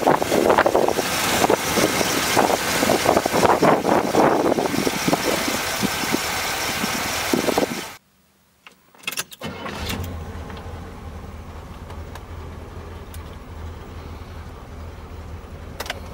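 1971 Chevrolet Corvette's V8 running loud under the open hood, its level rising and falling. After a short break of about a second and a half with a few clicks, the same engine idles steadily, heard from inside the cabin.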